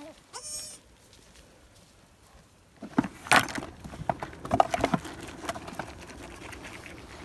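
A goat bleats once, briefly and high, just after the start. From about three seconds in come a run of knocks, clatter and rustling, the loudest about three seconds in.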